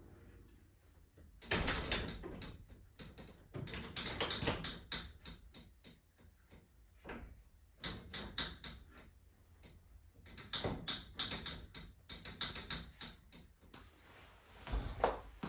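Rapid metallic clicking and clattering in four bursts, with a faint high ring, then a single thud near the end.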